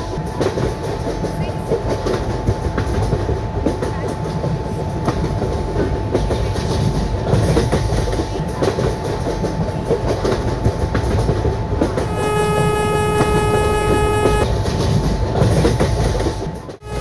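Train running on the rails, a steady rumble with wheel clicks, and the train's horn sounding once for about two seconds about twelve seconds in.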